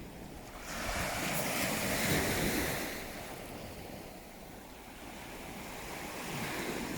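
Sea waves: one wave surges in about a second in and washes away by three seconds, and the next swells near the end.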